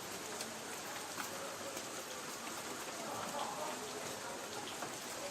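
Light rain falling on a tin roof: a steady hiss with scattered single drops ticking sharply on the metal.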